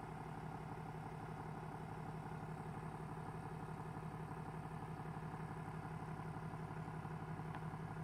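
Pickup truck engine idling steadily, a low even hum, as the truck creeps slowly forward.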